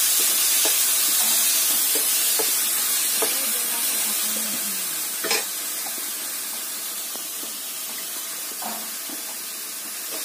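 Diced potatoes frying in hot oil in a wok: a steady sizzle, with the metal spatula clicking and scraping against the pan as they are stirred and one sharper knock about five seconds in. The sizzle grows a little quieter in the second half.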